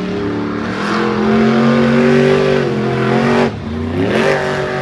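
Monster truck engine revving hard: the pitch climbs about a second in and holds high, drops off sharply after about three and a half seconds, then climbs again near the end.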